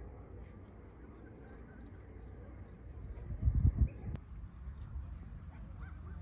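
Small birds chirping in short, repeated calls over a steady low outdoor rumble, with a brief louder low rumble a little past halfway and a sharp click just after it.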